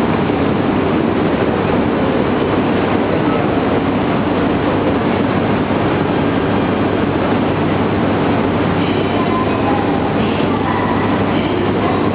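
Steady, loud rumble of a Shinkansen train at the platform, with a few faint tones near the end.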